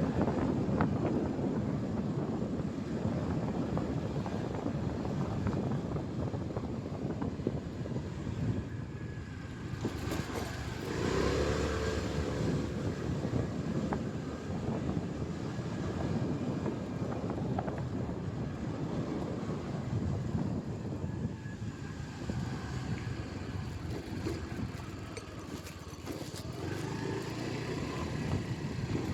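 Motorcycle riding noise: wind on the microphone over the bike's engine and road traffic. A brief pitched tone sounds about eleven seconds in.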